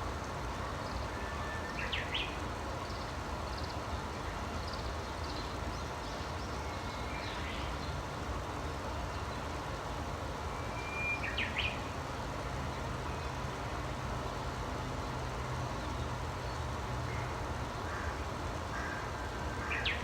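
Birds singing over a steady low background rumble. Three times (about two seconds in, near the middle, and right at the end) a bird gives a short held whistle followed by a quick run of rising notes, with fainter chirps scattered between.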